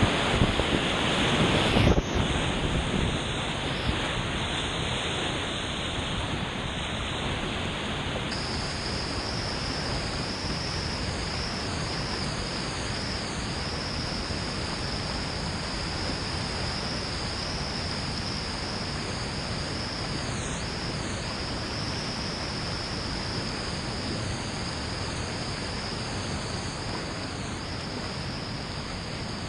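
Creek whitewater rushing steadily, a little louder in the first two seconds.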